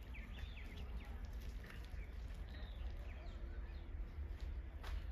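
Small birds chirping in short, scattered calls over a steady low rumble. A single sharp click comes near the end.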